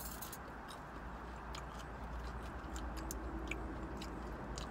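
Close-up chewing of a mouthful of fried shrimp, with scattered short clicks from the mouth over a steady low hum.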